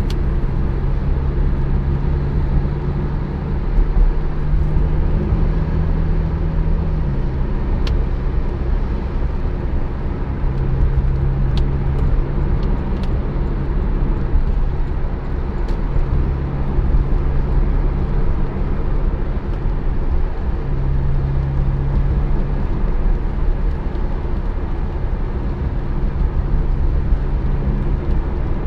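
Porsche 718 Spyder's flat-six engine running steadily at low revs in slow traffic, its pitch shifting slightly a few times, over a low rumble and road noise.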